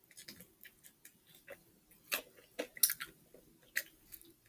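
Close-up chewing of a bite of fried chicken sandwich: irregular short, sharp mouth clicks and crunches, the loudest a couple of seconds in.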